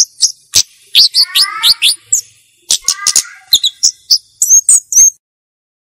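Flowerpecker (cabe-cabean) calling in quick clusters of sharp, high chips and ticks, with a few short downward-sliding notes and two brief runs of lower rising notes, stopping about five seconds in.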